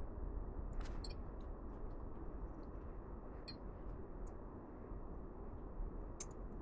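A few light, scattered clicks over a steady low background hum.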